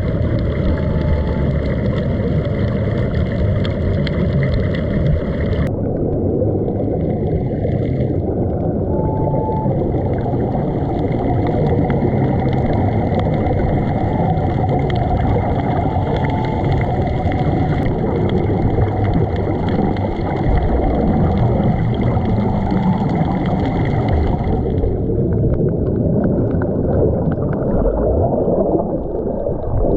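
Steady, muffled rushing and gurgling of water with a low rumble, as heard through a camera underwater, most likely from helmet divers' air bubbling out.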